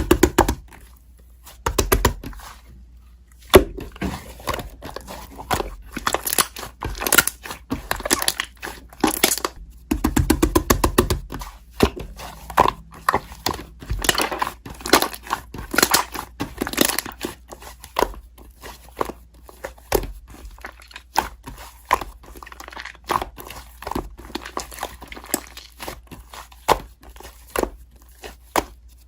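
Slime being squished, stretched and pressed by hands, giving a dense run of irregular crackling clicks and pops from trapped air.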